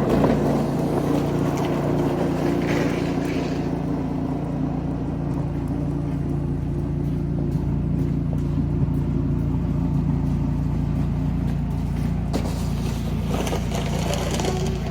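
Small engine of a snow-clearing machine running steadily at constant speed.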